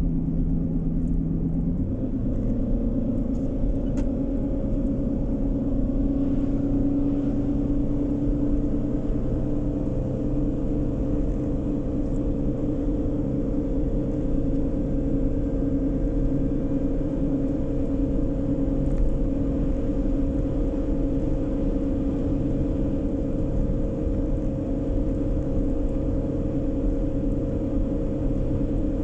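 A car driving, heard from inside: steady engine and tyre rumble. About two seconds in the engine note changes and rises gently over the next few seconds, then settles into an even cruise.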